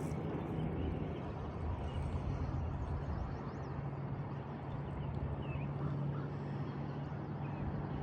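Steady outdoor ambience: a constant low hum over a broad rushing noise, with a few faint high chirps.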